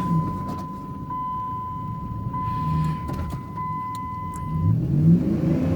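Vehicle's seatbelt warning chime sounding as one steady high tone for nearly five seconds before it stops, set off because the driver is not wearing his seatbelt. The engine runs underneath, rising briefly near the end.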